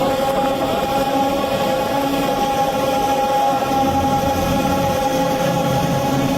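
Sustained choir-like drone of held notes, with the lower notes changing every second or two: background music.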